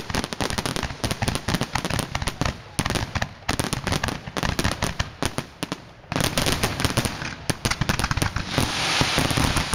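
Fireworks display: a dense, rapid barrage of firework bangs and crackles, with a brief lull about six seconds in. Near the end a hissing rush joins the crackling.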